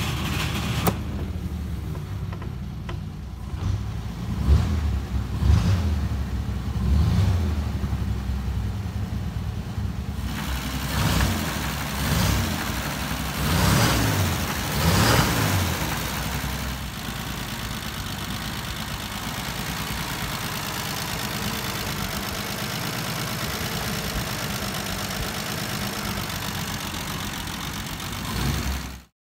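1935 Mercedes-Benz 200's side-valve straight-six engine running after a start. It is blipped up and down a few times in the first half, then settles into a steady idle.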